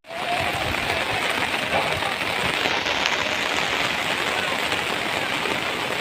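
Torrential rain pouring down, a dense steady hiss.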